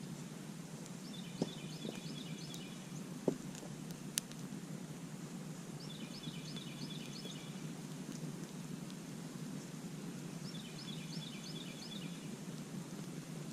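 Campfire burning with a low steady rush and a few sharp crackling pops in the first few seconds. A small songbird sings a short, fast series of high notes three times, about every four to five seconds.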